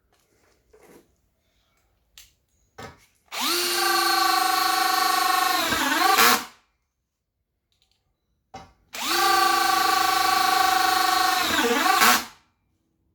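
Brushless motor of a Bosch BL5120 cordless drill run twice, each time for about three seconds at a steady high pitch, then wavering and dropping as it winds down. A few small clicks come before the runs.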